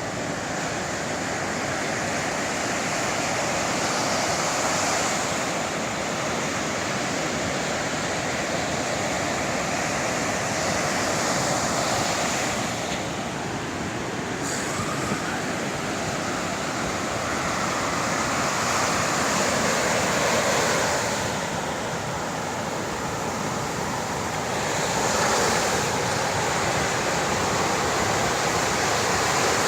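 Sea waves washing on the shore, a continuous rushing surf that swells and eases every few seconds.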